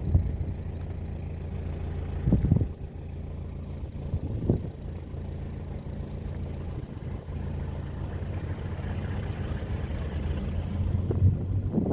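Engine of a Toyota Land Cruiser Prado safari vehicle running steadily with a low hum. There are two brief knocks, about two and a half and four and a half seconds in.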